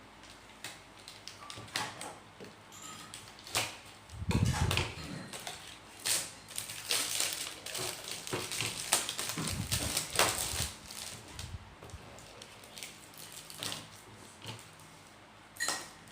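Things being handled at close range: a run of clicks and knocks with a crinkling, rustling stretch in the middle, and a couple of dull thumps, the first about four seconds in.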